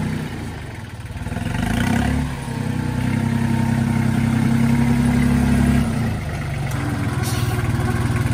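Tractor engine running, working harder from about two seconds in, then easing back to a lighter steady run about six seconds in.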